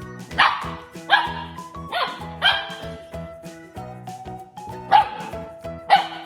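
A dog barking about six times in short separate barks over background music.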